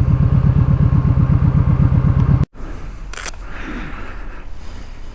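Kawasaki Vulcan Vaquero's V-twin engine idling with a steady, even pulsing beat, its exhaust baffles taken out. It cuts off abruptly about two and a half seconds in, leaving a quieter low rumble with a brief clatter.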